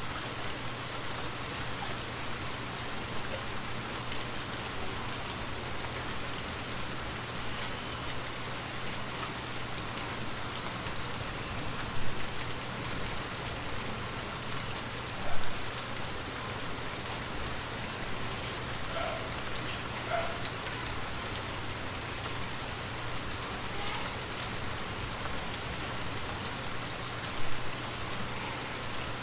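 Steady rain falling on a surface, an even hiss of many drops. A few louder single taps stand out about twelve, fifteen and twenty-seven seconds in.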